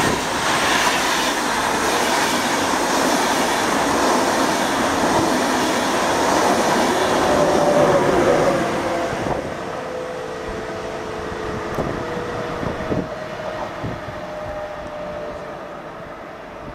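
ÖBB Railjet passenger train running past along the platform and away. The rumble of its wheels on the rails is loud for the first eight or nine seconds, then fades steadily, leaving a faint whine as it recedes.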